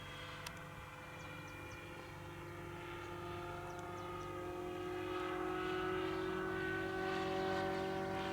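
Helicopter running with a whine of several tones that slowly rises in pitch and grows louder, as if spooling up, with a single sharp click about half a second in.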